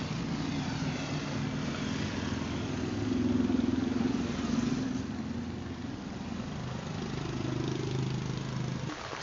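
A vehicle engine running and revving: it swells louder and higher about three to four seconds in, then settles lower, and cuts off abruptly near the end.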